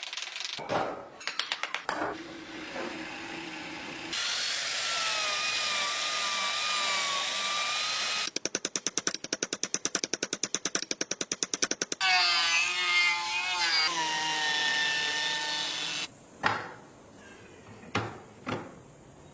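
Battery-powered toy cars: a small motor whirring and electronic sound effects, including a wavering siren-like tone, a fast even rattling pulse in the middle, and a few clicks near the end.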